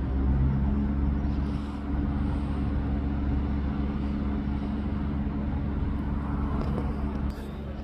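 A train at the station platform, a steady low rumble with a droning mechanical tone, easing off a little near the end.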